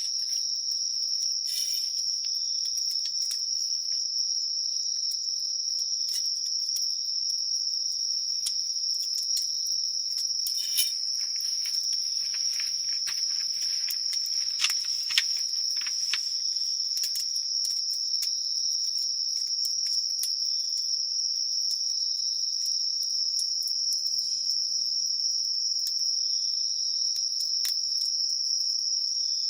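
Insects chirping in a continuous high-pitched chorus, with a few sharp pops from a wood campfire.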